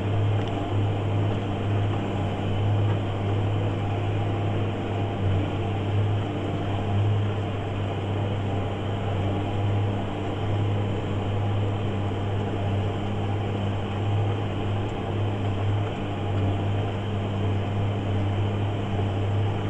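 JCB Fastrac 8250 tractor's engine running steadily under load, pulling a plough in eighth gear. It makes a constant low drone with no change in revs.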